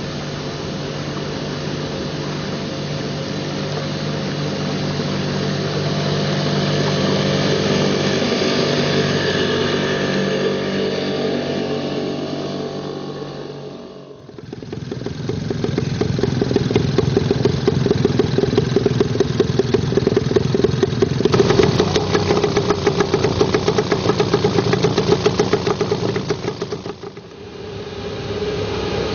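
1957 British Seagull Model 102 two-stroke outboard motor running under way. It is steady for the first half, then drops out abruptly about halfway and returns with a rapid, even firing beat. It drops out briefly again near the end.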